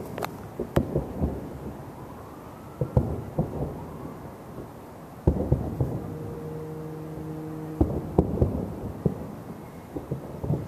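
Loud, irregular booms and bangs echoing across the city sky, some single and some in quick clusters, with two sharp cracks at the start. For about two seconds in the middle a steady pitched tone sounds under the booms. The cause is unknown; the listener wonders whether they are fireworks.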